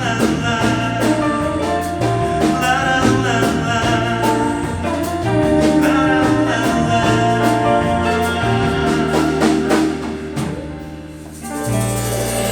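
Live song performance: singing over guitar and drums. Near the end the band settles onto a long held final chord.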